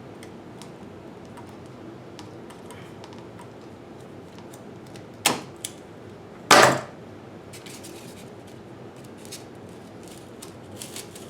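Small handling clicks, then a sharp click about five seconds in and a louder short crack about a second later.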